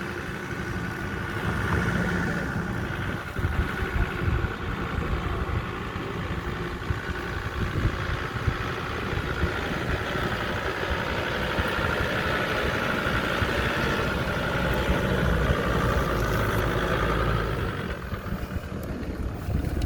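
Off-road 4x4's engine running steadily at low speed as the vehicle crawls along a trail.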